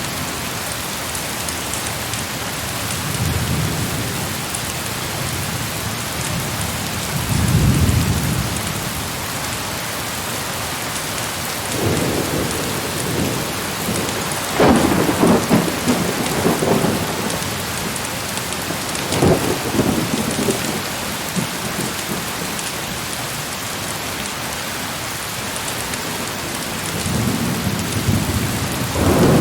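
Heavy rain falling steadily through a thunderstorm, with repeated rolls of thunder. There are low rumbles a few seconds in and again near eight seconds. The loudest, crackling peals come about halfway through, with another near the end.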